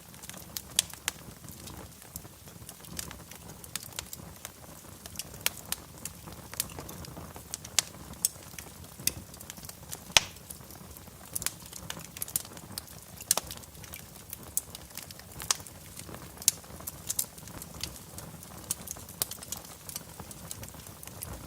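Wood fire burning in a fireplace: irregular sharp crackles and pops, about two a second, over a low steady rumble of the flames.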